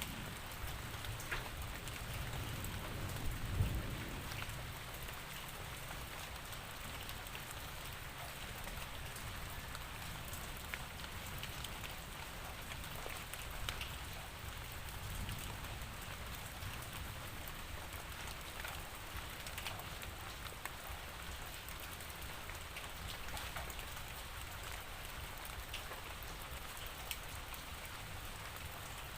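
Steady rain falling, with scattered individual drops ticking on a surface. A brief low rumble swells up about three to four seconds in.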